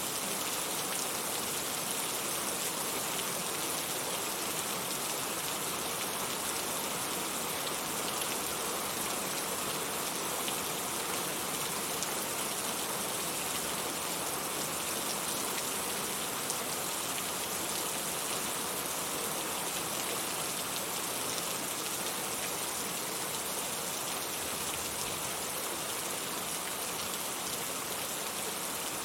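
Steady heavy rain falling, an even hiss of drops with no thunder heard.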